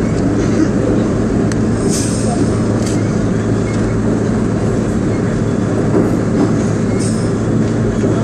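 R32 subway train running on the J line, heard from inside the lead car: a steady rumble of wheels and running gear with a constant low hum, and a few brief sharp squeaks and clicks from the wheels on the rails.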